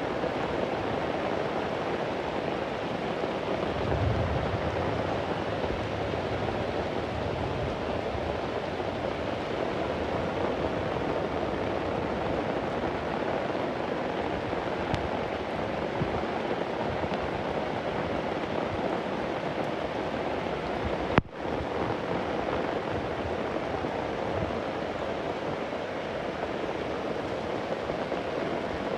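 Steady heavy rain, with a low rumble of distant thunder about four seconds in. About two-thirds of the way through there is a single sharp click with a brief dropout.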